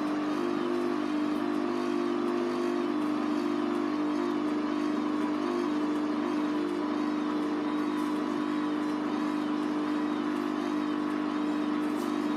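Hoover Vision Tech VT 914 D22X washing machine running a 40°C mixed wash cycle. Its motor gives a steady hum made of several held tones.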